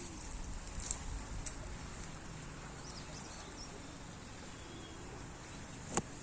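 Outdoor background ambience with a few faint bird chirps, small clicks, and one sharp click near the end.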